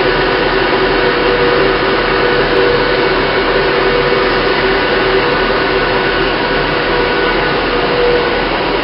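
Class 390 Pendolino electric train heard from on board under way, a steady rushing running noise with a steady whine from the traction motors.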